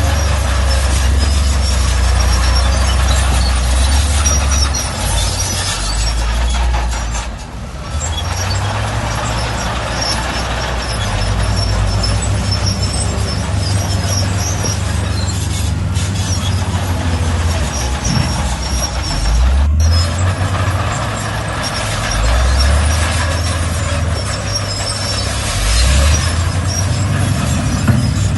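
Diesel engines of heavy earthmoving machinery running, their pitch stepping up and down several times as the load changes, with high-pitched metallic squeaks throughout.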